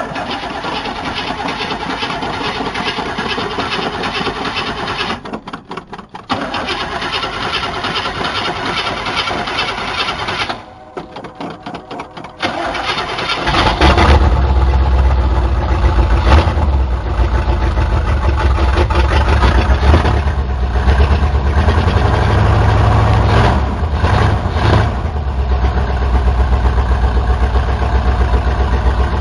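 Chevy 350 V8 in a 1977 Chevrolet C10 cranked on the starter in two long tries with a short pause between them. About 13 seconds in it catches and runs loud with its exhaust disconnected, after sitting unstarted a long time.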